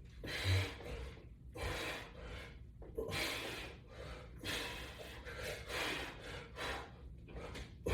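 A man breathing hard and rhythmically through a set of resistance-band pull-downs, with a forceful breath about once a second.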